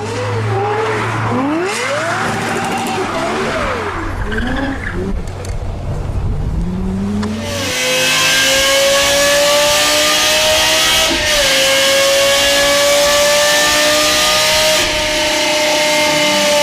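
Lexus LFA's 4.8-litre V10 revving in quick rises and falls. Then it runs long and steady at high revs, the pitch climbing slowly, with one brief dip partway through.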